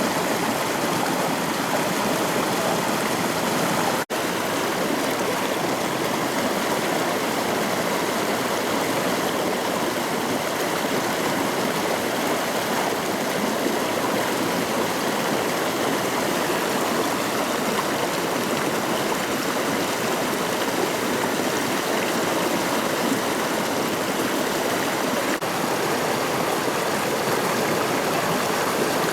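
Rushing water of the McCloud River: a steady, even rush with no let-up, broken only by a split-second gap about four seconds in.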